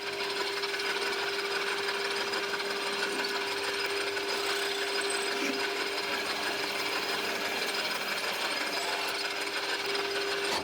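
A power tool running steadily under load: an even rasping noise with a steady whine over it.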